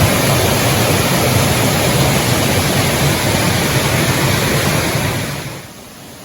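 Steady, loud rushing of a waterfall, which drops away to a much quieter hiss about five and a half seconds in.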